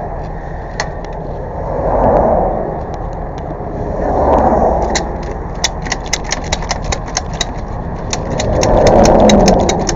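Engine running steadily with a slow swell every two seconds or so, and from about halfway a rapid ticking of roughly five ticks a second.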